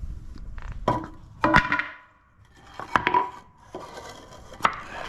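Tools and workbench parts being handled: a handful of sharp knocks and clinks, some with a brief metallic ring, spaced a second or more apart.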